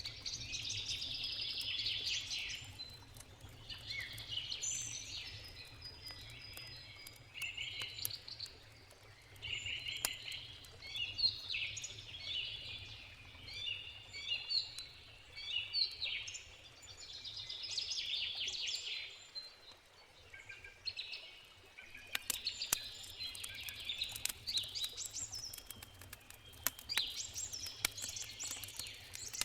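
Songbirds singing in repeated short, trilling phrases every couple of seconds over a campfire crackling with sharp pops, which come more often in the last third, and a steady low rush of river water.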